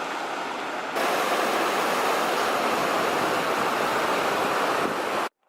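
Hot-spring runoff water pouring off a wall into a river, a steady rush of water that gets louder about a second in and cuts off abruptly near the end.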